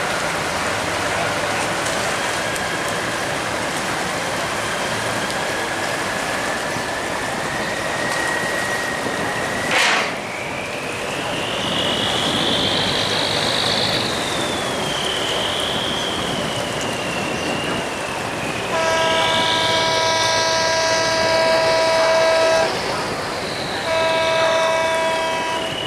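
A long high metallic squeal that climbs slowly in pitch, broken by a sharp crack about ten seconds in, then wavering higher, over a steady rush of noise. Near the end, a boat horn sounds two long blasts, the second shorter; these are the loudest sounds.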